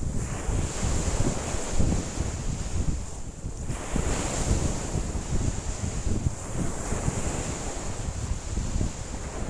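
Lake waves washing in under strong gusty wind, with the wind buffeting the microphone in uneven low rumbles and a steady high hiss above.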